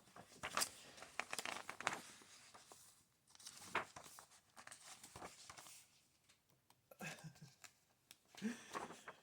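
Paper book pages being turned and handled, rustling and crinkling in several irregular bursts.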